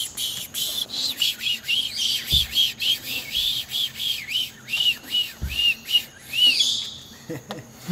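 Pet parrot making a rhythmic whispered 'psh, psh, psh', copying the shushing it is put to bed with. Each hiss carries a short rising-and-falling whistle, about three a second, and the series stops about six and a half seconds in.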